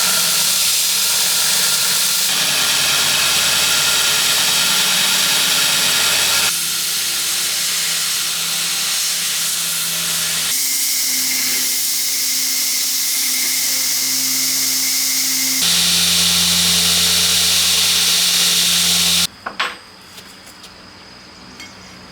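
Loud steady workshop power-tool noise, in several clips cut together, with a steady hum under it. About three seconds before the end it stops abruptly, leaving a quieter background with a few knocks and a steady high insect chirping.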